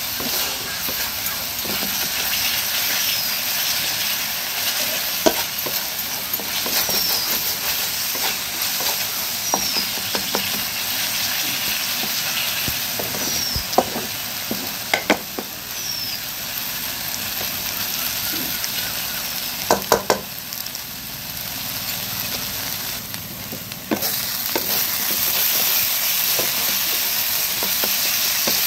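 Onion and ginger-garlic masala sizzling in oil in a kadai as it is stirred with a spatula. The spatula clacks against the pan now and then.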